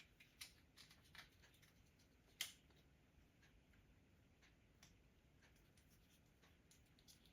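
Faint, scattered clicks and light taps of small metal hardware being handled, with one sharper click about two and a half seconds in.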